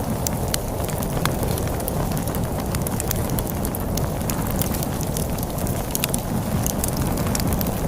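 Wood fire crackling with frequent sharp snaps and pops over a steady low rumble of storm wind.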